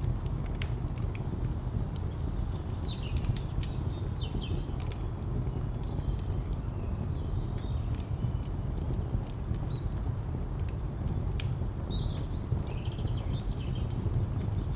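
Wood fire crackling with scattered sharp pops over a steady low rumble of distant traffic. A few short bird chirps come about three seconds in and again near twelve seconds.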